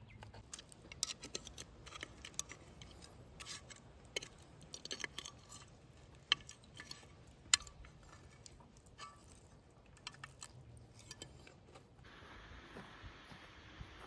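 Scattered light clicks and clinks of small objects being handled, the two sharpest about six and seven and a half seconds in. About twelve seconds in it changes abruptly to a faint steady hiss.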